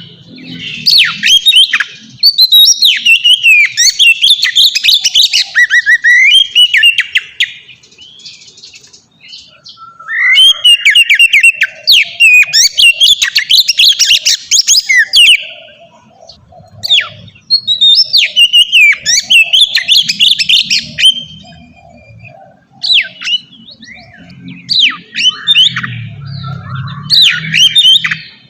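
Oriental magpie-robin (kacer) singing loud phrases of varied whistles and rapid notes, in bursts of a few seconds with short pauses between them.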